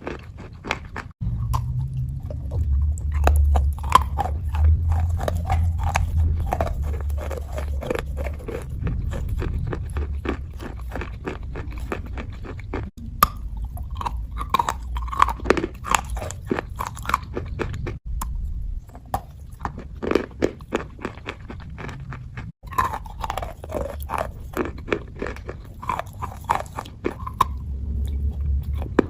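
Close-miked ASMR crunching and chewing: rapid sharp crunches mixed with wet, pasty mouth sounds. The sound breaks off and restarts abruptly several times as one clip cuts to the next.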